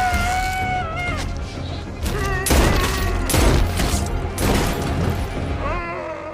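Action-film soundtrack: music and a low rumble under a drawn-out yell, then a run of loud bangs through the middle, with another cry near the end.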